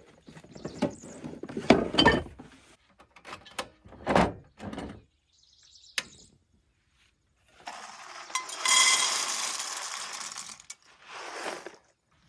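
Cooking gear being handled: a run of knocks and clinks, then a few seconds of steady hissing noise past the middle and a short burst after it.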